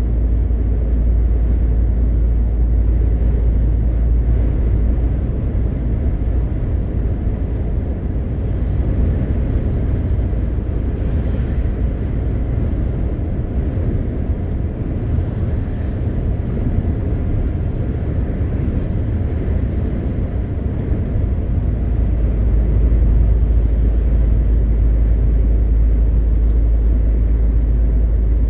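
MAN TGX 520 truck on the move: its straight-six diesel and road noise make a steady, deep rumble.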